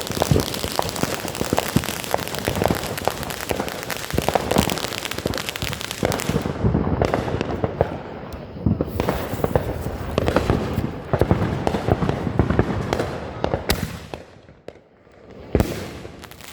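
Consumer fireworks going off in rapid succession: a dense run of pops and crackles that thins out after about six seconds and stops about fourteen seconds in, then one last sharp bang.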